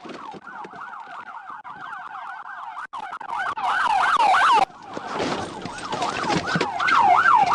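Police car siren on a fast yelp, its pitch sweeping up and down several times a second. It gets louder about three seconds in, cuts out briefly past the middle, then returns louder still.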